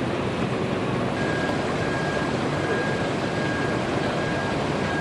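Steady rushing noise of a moving vehicle. A faint high beep sounds in short repeated dashes, about one to two a second, starting about a second in.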